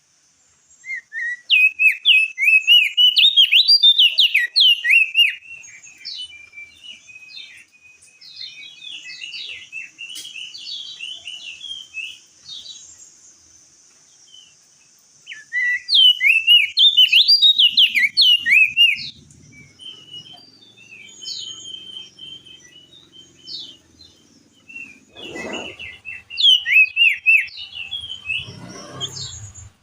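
Crested white-eye (opior jambul) singing: three loud bursts of rapid, chattering warbled phrases a few seconds each, with softer scattered calls in between. A faint low rumble and two dull thuds come in near the end.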